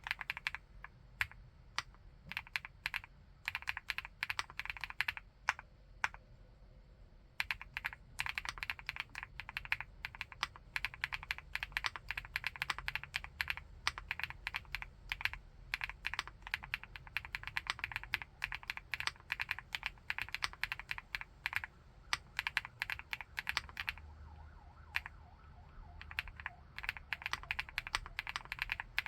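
Fast, continuous typing on a 75%-layout keyboard with a full aluminium case, key after key in dense runs, with a short pause about six seconds in.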